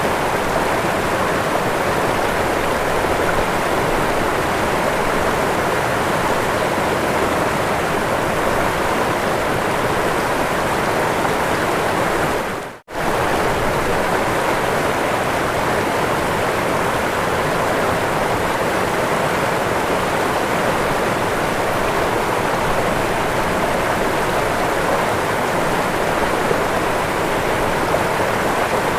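Waterfall: water falling and rushing steadily. About thirteen seconds in, the sound drops out almost to silence for a split second, then resumes.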